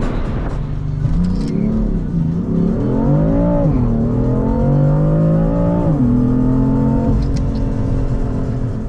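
BMW M3 (F80) twin-turbo straight-six heard from inside the cabin, accelerating: its pitch climbs, drops at a gear change about three and a half seconds in, climbs again, then falls back about six seconds in and holds steady.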